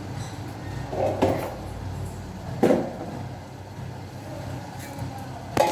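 Three dull knocks of kitchenware being handled, about a second in, near the middle and near the end, over a steady low hum.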